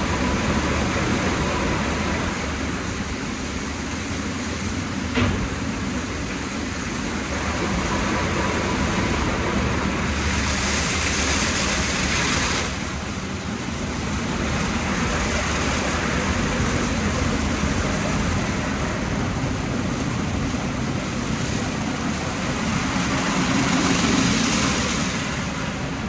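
2004 WashTec SoftCare Pro rollover car wash in its shampoo stage: the rotating SofTecs brushes and water running over the car make a steady rushing wash noise, with a 16-bar high-pressure wheel-washer spray. A louder hissing spray comes for a couple of seconds near the middle, and there is a single knock about five seconds in.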